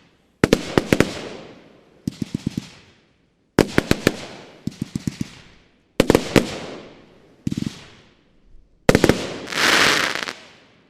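Professional Style Ghost Blaster, a 30 mm 100-shot firework cake (battery), firing. Groups of sharp bangs come about every second and a half, each dying away, and a last volley with a hissing crackle ends the cake near the end.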